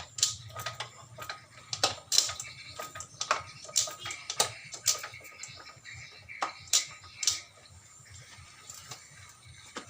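Irregular sharp metal clicks and knocks during work on a Honda Supra 125 motorcycle, over a low steady hum. The clicks bunch up in the first half and thin out after about 7 seconds.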